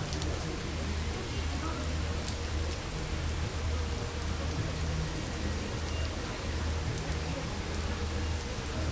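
Heavy rain pouring steadily, with scattered sharp drop ticks over a steady low rumble.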